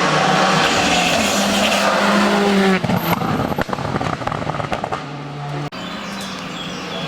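Hill-climb race car engine running hard at high revs, then the level drops about three seconds in as it lifts off, with a rapid run of sharp pops for a couple of seconds before a quieter, steady engine note.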